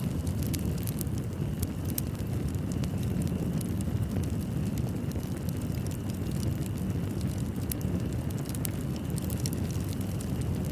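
Fireplace burning, with a steady low rumble of flames and frequent small sharp crackles and pops scattered irregularly throughout.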